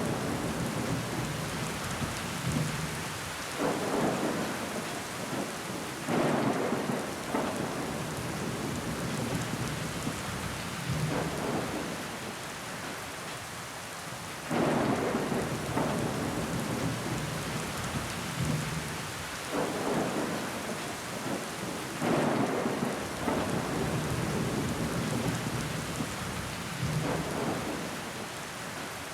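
Steady rain on window glass with water running down it, swelling louder every few seconds.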